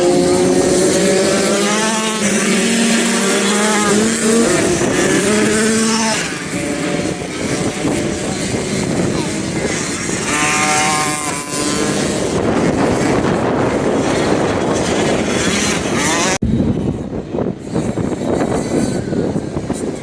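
Motocross bike engines revving, their pitch rising and falling as the bikes ride the track, with a steady rushing noise taking over in the second half and a sudden cut about 16 seconds in.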